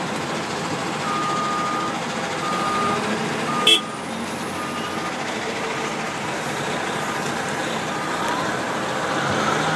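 Heavy vehicle engine running steadily while a backup alarm beeps four times, about once a second, starting about a second in; a single sharp bang partway through.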